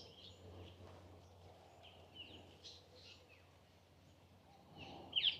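Faint outdoor ambience of bird calls: scattered short chirps and whistles over a low steady background hum.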